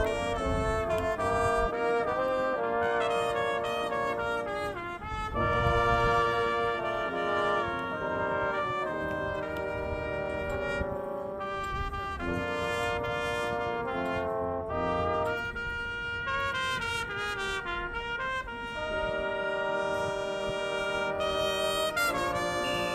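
Marching band brass section (trumpets and trombones) playing a melody in full chords, with low drum hits underneath.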